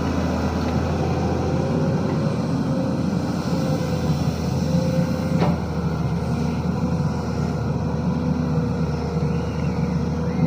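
Sany SY215C excavator's diesel engine running steadily with a low drone and a faint steady whine, and a single sharp click about five seconds in.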